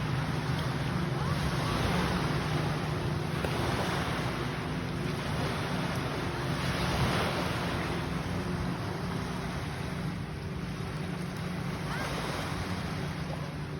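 A steady low motor hum under a rushing noise that swells and fades every few seconds.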